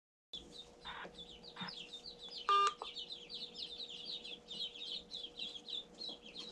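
A brood of day-old ducklings peeping continuously, many short falling peeps overlapping. About two and a half seconds in, a short beep cuts through, louder than the peeps.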